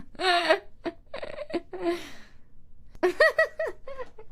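A woman's high-pitched voice making short wordless cries and giggles in quick groups of rising-and-falling notes.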